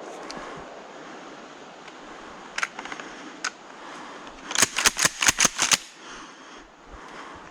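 A series of sharp clicks: two single ones, then a quick run of about eight near the middle.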